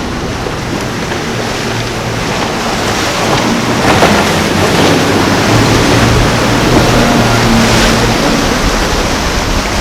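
Waves and surf with wind on the microphone, and the low, steady drone of a boat's engine that grows louder through the middle and eases near the end.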